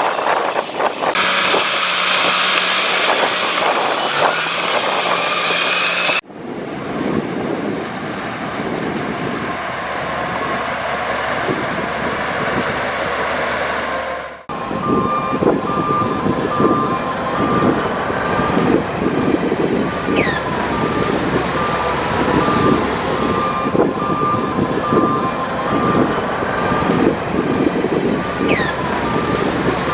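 Heavy earthmoving machinery running, with two abrupt cuts in the sound. About halfway through, a reversing alarm starts beeping steadily over the engine noise.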